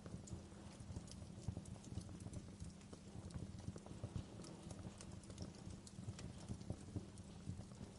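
Wood fire crackling, with irregular sharp pops and snaps several times a second over a low steady rumble of burning.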